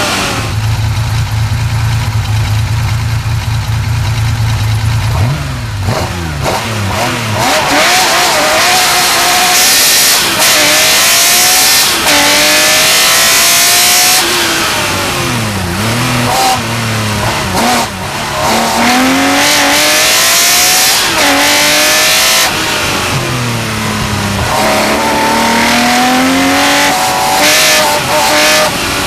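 Porsche 911 Carrera RSR's flat-six race engine holding a steady low note for about five seconds, then accelerating hard, revs climbing and dropping sharply again and again through gear changes.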